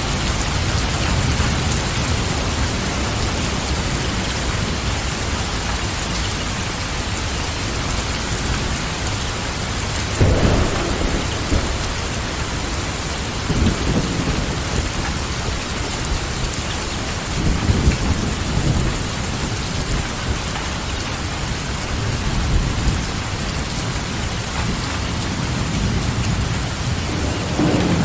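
Steady rain falling, with several low rumbles of thunder rising from about ten seconds in.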